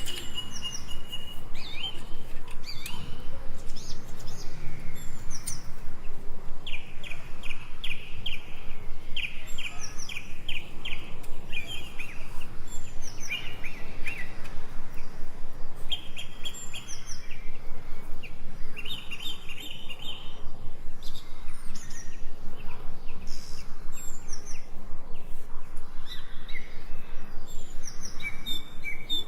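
Small birds chirping in quick repeated trills several times, over a fast, regular pulsing sound of about three beats a second.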